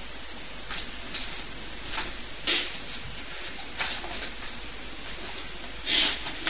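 Steady hiss of a recording's noise floor in a small room, with a few faint, brief rustles, the loudest near the end.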